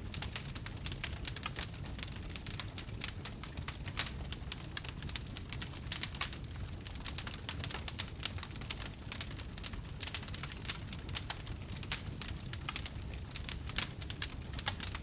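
Wood fire burning: dense, irregular crackling and popping of burning wood over a steady low rumble.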